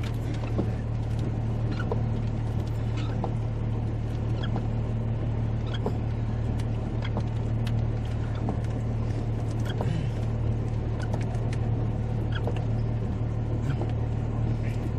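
Steady low hum of an idling vehicle engine, with scattered light ticks over it.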